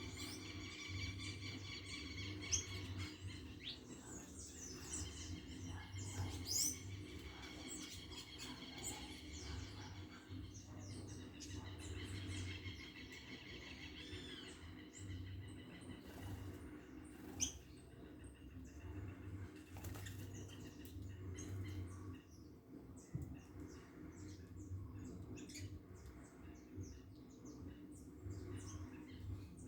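Several small birds chirping and calling. Runs of fast, rapidly repeated high notes come near the start and again about a third of the way in, with scattered single chirps throughout.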